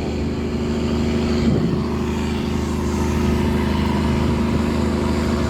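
Tugboat engine running steadily under load while towing cargo barges, a continuous low drone.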